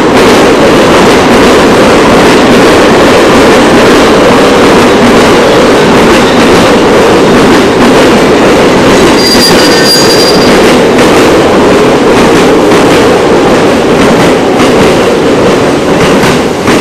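JR East E217-series electric train running into the station past the platform edge: a loud, steady rush of steel wheels on rail and car bodies passing close by. About halfway through, a brief high squeal rings out over the rush.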